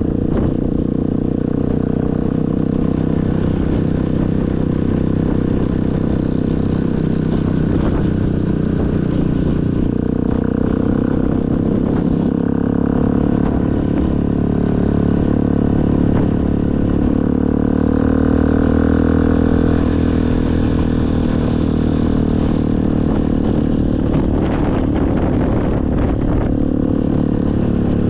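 Motorcycle engine running steadily while riding, its note rising and falling gently with the throttle and a little louder just past the middle.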